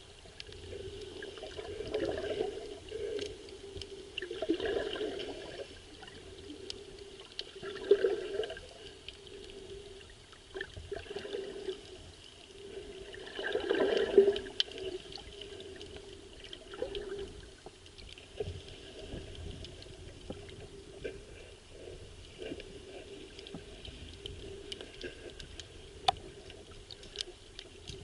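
Muffled water sloshing and surging around a camera filming underwater in the sea, swelling every few seconds, with scattered small clicks.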